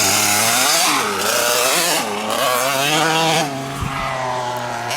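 LEM RX 65cc minicross bike's two-stroke engine revving up and down several times. It drops to a quieter, steadier note about three and a half seconds in.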